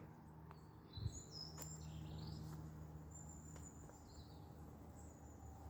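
Faint birds chirping over a low, steady background hum, with a soft knock about a second in.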